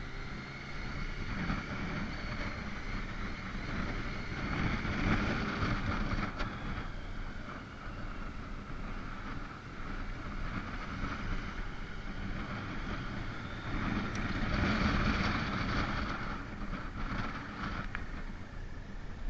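Motorcycle engine running while riding, with wind on the microphone. It swells louder twice, about a third of the way in and again near the end.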